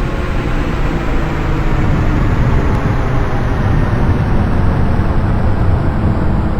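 Airbus A380's four Rolls-Royce Trent 900 jet engines at takeoff power: a loud, deep, steady roar that swells a little in the first couple of seconds, with a slow hollow sweep falling in pitch high up.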